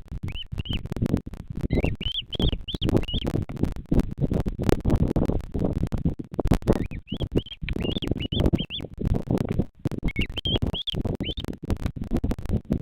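A bird chirping in three short runs of quick, high, rising-and-falling notes, over constant crackling and rustling.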